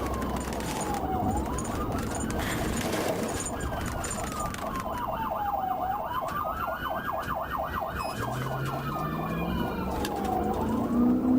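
Police car siren wailing in slow rising and falling sweeps, with a rapid warble over it for a few seconds in the middle. Near the end a vehicle engine note rises as it accelerates.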